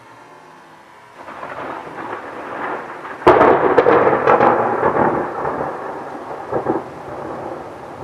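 Thunder from a close lightning strike. A rumble builds about a second in, then a sudden sharp crack rolls into a crackling, rolling rumble that slowly fades, with rain in the background.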